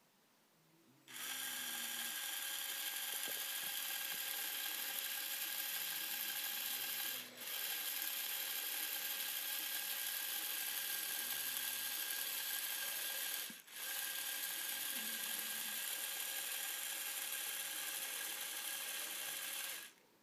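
Small LEGO WeDo motor driving the gears of the dancing-birds model, a steady whirring whine that starts about a second in, stops for a moment twice and starts again, and cuts off just before the end.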